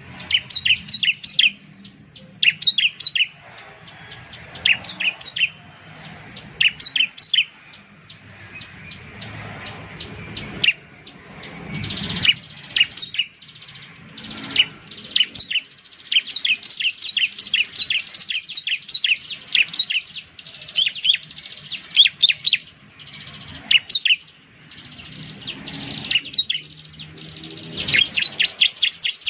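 Bar-winged prinia (ciblek) singing: quick bursts of sharp, high chirps every second or two, running into a near-continuous chatter in the second half.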